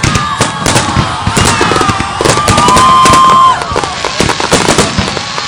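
Fireworks going off: rapid crackling and bangs throughout, with gliding whistles and one loud steady whistle lasting about a second near the middle.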